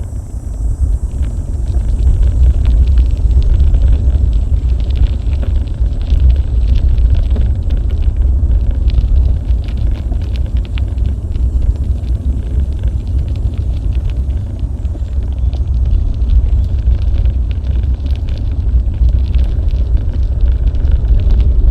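Wind buffeting the microphone of a bike-mounted action camera while riding: a loud, steady low rumble with many faint clicks and rattles over it.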